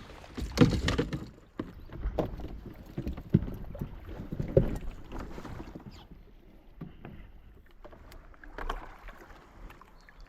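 Irregular knocks, bumps and clatter of gear being handled aboard a small boat, loudest in the first couple of seconds, then lighter scattered taps and rustling.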